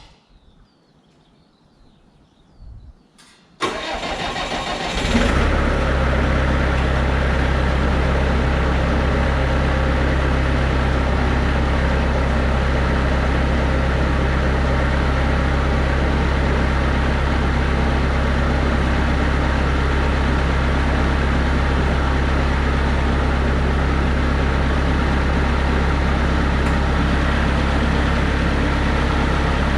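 Bobcat 753 skid steer's diesel engine cranked by the starter for about a second and a half, catching and settling into a steady idle.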